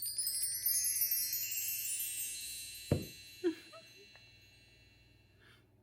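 Bright chimes ringing in an upward, shimmering run and slowly dying away. About three seconds in there is a single thump, followed by a short, brief cry.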